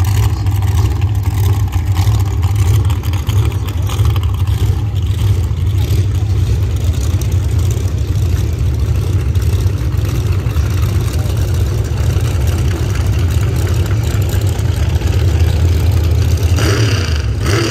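Car engine running with a steady low rumble and no sharp rise in revs; a brief brighter sound comes in near the end.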